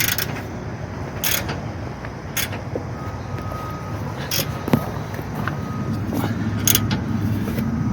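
Hand tools clicking and knocking on a truck's rear shock mount, about six sharp strokes spread over several seconds, over a steady low rumble.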